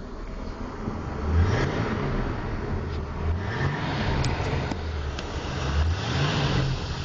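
Chevy 400 small-block V8 in a 1983 K10 pickup running; its pitch rises and falls about three times. A few light clicks sound near the middle.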